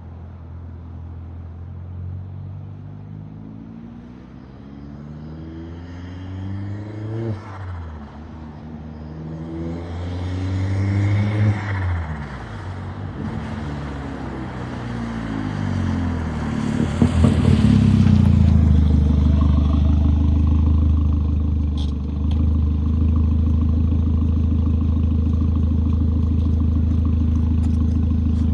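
Straight-piped 2001 VW Jetta Mk4 1.8T turbo four-cylinder accelerating, its revs rising and dropping about three times through the gear changes as it grows louder. For the last ten seconds it holds a steady, loud low note.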